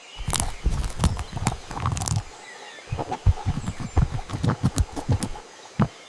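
Animal footsteps: an uneven run of dull knocks and thuds, several a second, coming thickest from about three to five seconds in.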